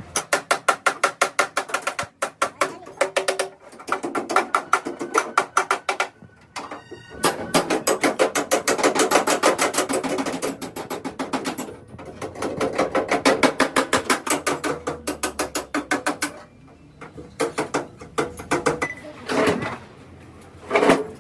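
Rapid metal striking, about ten blows a second with a ringing tone, in bursts of a few seconds separated by short pauses.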